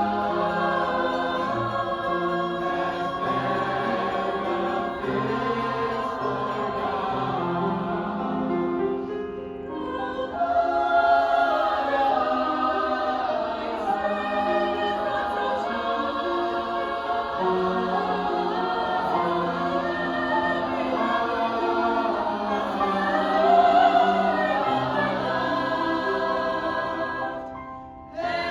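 A choir singing in sustained, flowing phrases, breaking off briefly about nine seconds in and again just before the end.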